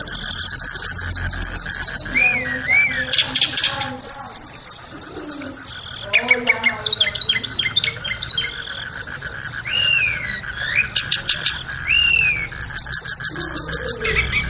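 Tledekan songbird singing a varied, rapid song. Fast high trills alternate with clear whistled phrases and short down-slurred notes.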